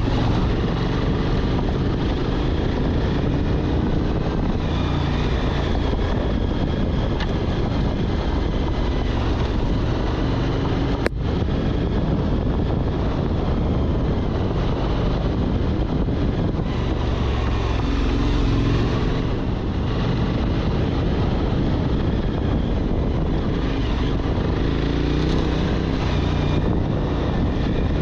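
Motorcycle engine running under way on a ride, its pitch rising and falling with the throttle, with wind buffeting the microphone. A single sharp click about eleven seconds in.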